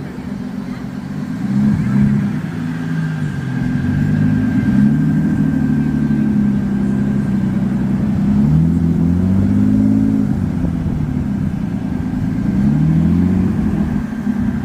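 A car engine running, its pitch rising and falling slowly several times.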